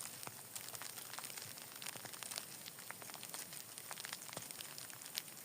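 Heavy rain falling, with a steady hiss and many irregular sharp ticks of drops striking close by.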